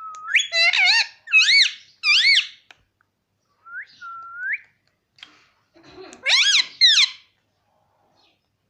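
Indian ringneck parrot giving shrill, whistled calls. A quick run of rising-and-falling warbles comes first, then a rising whistle about four seconds in, and two more sharp calls near the end.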